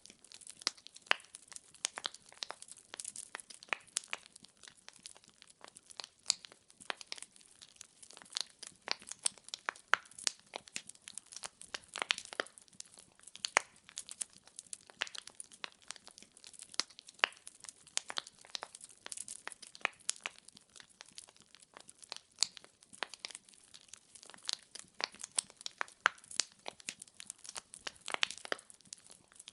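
Wood fire in a fireplace crackling, with dense irregular pops and snaps of burning logs over a faint hiss.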